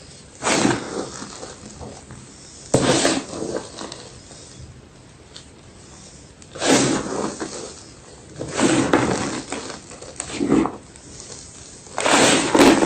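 Fresh white gym chalk crunching in about six separate bursts, each lasting under a second, a few seconds apart.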